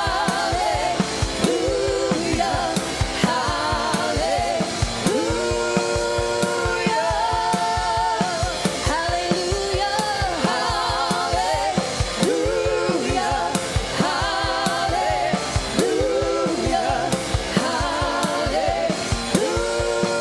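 Church worship band with drum kit playing a gospel praise song, singers holding long wavering notes over a steady drum beat.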